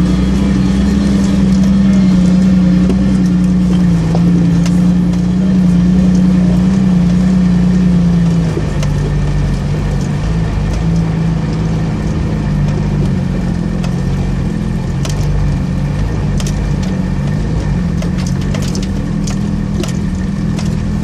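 A 4x4's engine droning steadily in low gear, heard from inside the cab while it crawls up a rough gravel track; the engine note drops slightly and gets quieter about eight seconds in. Scattered sharp knocks and clicks in the second half.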